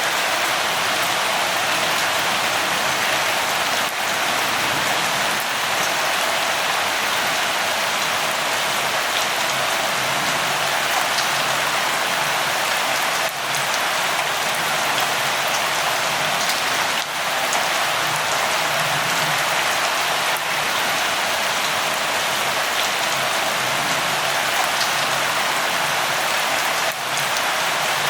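Steady rain falling, a continuous even hiss of rainfall with faint scattered drop ticks.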